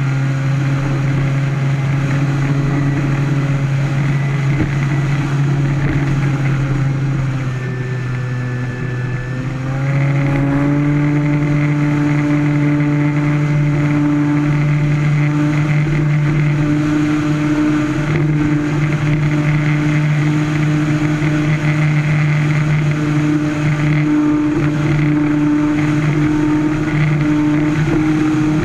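Brushless electric motor and propeller of an E-flite Carbon-Z Cub RC plane running at a steady pitch. The throttle eases off about eight seconds in, then opens up about ten seconds in, and the motor holds a higher, steady pitch.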